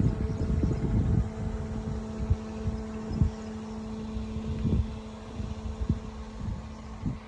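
Wind gusting against the microphone, with a steady low hum from a motor underneath.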